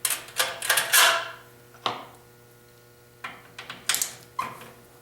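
Irregular metallic clinks and knocks of hand tools against snowblower engine parts, with one strike about a second in ringing briefly, and a short lull in the middle.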